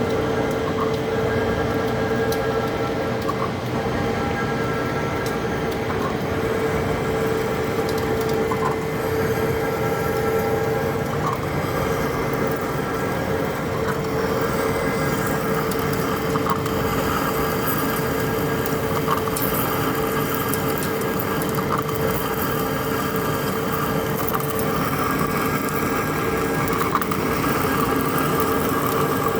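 Heavy-duty lathe turning a large steel part: a steady machine drone with a constant hum and scattered faint clicks.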